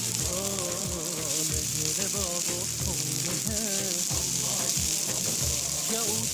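Bulgur and vermicelli sizzling steadily as they fry in fat in a pot. Background music with a melodic line plays over it.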